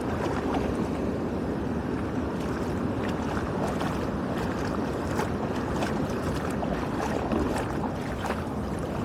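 Steady rushing of floodwater through a drainage outlet, with scattered short splashes and crackles on top.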